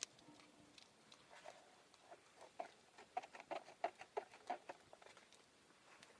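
A quick run of about a dozen light clicks or taps, roughly five a second, over about two seconds in the middle.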